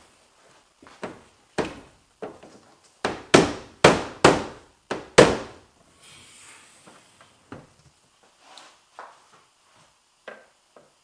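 Taps on an AE86 Corolla's rear spoiler to push a retaining clip fully home: a series of sharp knocks, with a quick run of five louder ones about three to five seconds in and lighter knocks around them.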